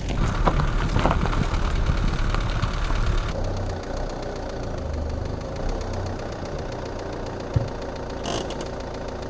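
A car engine idling with a steady knocking clatter. About three seconds in the sharper clatter drops away, and a single sharp knock comes near the end.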